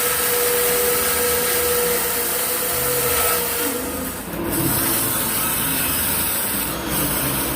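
A woodworking power tool running steadily with a steady hum. About four seconds in the hum fades and the level dips briefly, then the tool runs on with a changed sound.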